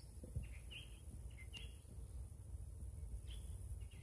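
Faint outdoor ambience with a few short bird chirps scattered through it, over a steady low background noise and a thin, steady high-pitched hiss.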